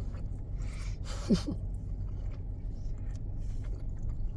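A person chewing food, with a short falling "mm" hum about a second in, over a steady low rumble.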